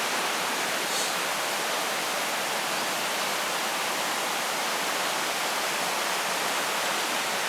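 Mountain creek water running in a steady, even rush.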